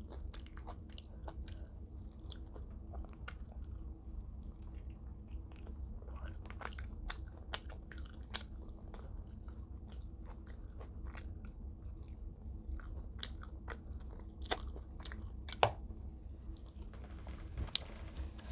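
Close-miked chewing and biting of extra crispy fried chicken, with irregular crunches throughout. The loudest crunches come near the end. A steady low hum runs underneath.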